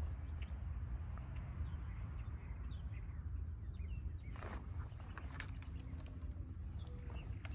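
Outdoor ambience of scattered short bird chirps over a low steady rumble, with two brief rustling knocks about four and a half and five and a half seconds in.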